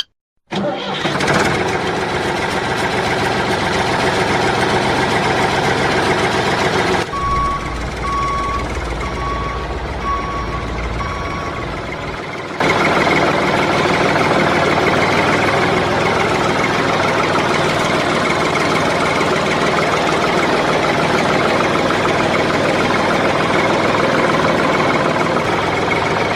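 Tractor engine running steadily. In the middle it changes abruptly to a deeper rumble with a run of short repeated beeps like a reversing alarm, then switches back.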